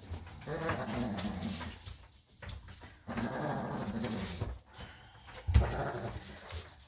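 Senior Shih Tzu making drawn-out pitched vocal sounds in two stretches while unhappy at being bathed. A sharp thump sounds near the end.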